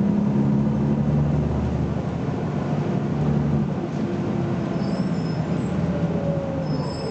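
BMC Belde 220-SLF city bus's diesel engine running under way, a steady low drone that eases slightly after about two seconds. Brief high squeaks come about five and seven seconds in.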